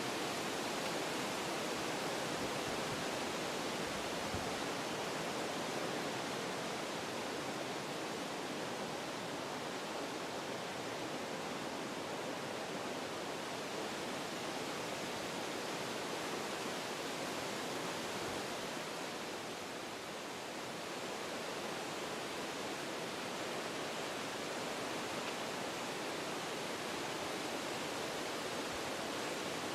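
Wind blowing through forest trees, a steady rushing of leaves and branches that eases briefly about two-thirds of the way through, then picks up again.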